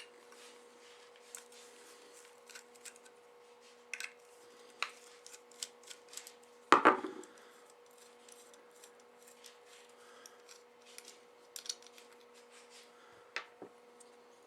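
Small metal clicks and scrapes of a flathead screwdriver working screws out of the metal base plate of a CB antenna's magnetic mount, with one much louder knock about seven seconds in.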